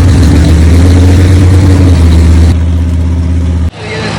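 Big truck engine running loud and steady close by, holding an even pitch with no revving. It cuts off abruptly about three and a half seconds in, giving way to a quieter engine sound.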